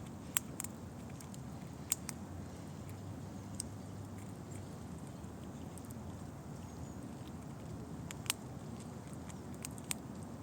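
Squirrel gnawing and cracking pine-nut shells: sharp little cracks in small clusters, a pair about half a second in, another pair near two seconds, one at about three and a half seconds and a few more near the end, over a steady low background rumble.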